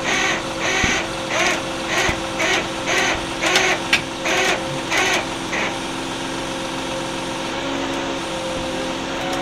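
A truck engine running steadily with a constant whine. Over it comes a rhythmic hissing pulse about twice a second, which stops about six seconds in.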